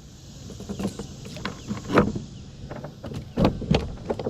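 Irregular knocks and clunks on a fishing kayak, with a louder thump about two seconds in and a quick run of knocks near the end.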